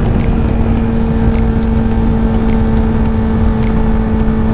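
Honda CBR1000RR's inline-four engine holding steady revs at cruising speed, one even unwavering tone, under a heavy low rumble of wind on the microphone.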